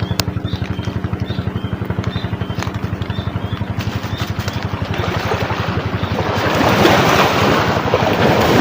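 A passing boat's engine chugging steadily, with a rapid even pulse. From about five seconds in, a rushing noise builds and grows louder over it.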